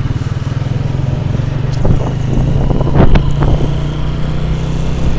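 Honda motorcycle engine running steadily at riding speed, heard from the rider's seat, with a few brief knocks around the middle.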